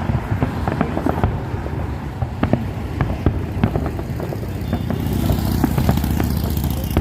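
Fireworks going off: many irregular sharp cracks and pops over a steady low rumble, with a hissing crackle that sets in about five seconds in.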